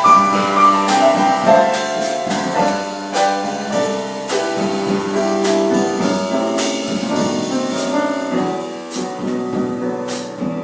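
Jazz piano playing an instrumental solo in a gentle bossa-nova ballad, with light drum-kit cymbal strokes behind it.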